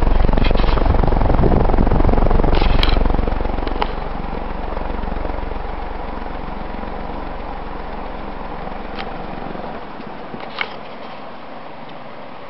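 Energ-Air (Evergo/Union) 36-inch industrial ceiling fan running on high speed: a steady whoosh of the blades with the hiss of its bearings, which are a little noisy, as is usual for a fan about 35 years old. For about the first three seconds the fan's air blast rumbles on the microphone, then the sound settles to a quieter, even whoosh with a couple of faint clicks.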